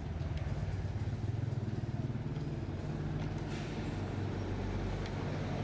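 An engine running steadily with a low, fast pulse.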